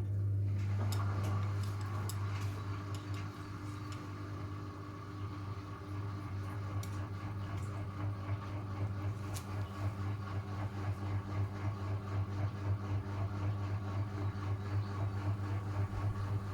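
Miele W1 washing machine's pump switching on with a steady electric hum, with light clicks and a watery rush; later the sound begins to pulse unevenly, like water gurgling through the pump.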